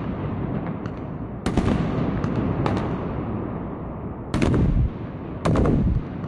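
Fireworks sky shots bursting: a sharp bang about a second and a half in, then two louder bangs near the end, with smaller cracks between and a continuous rumble of bursts throughout.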